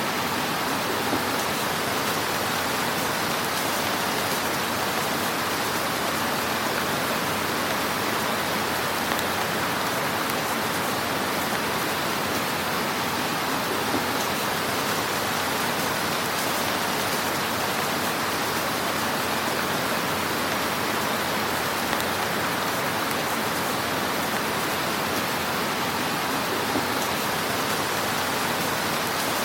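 Fire crackling in a fireplace: a steady, dense hiss of fine crackles with a few slightly louder pops scattered through.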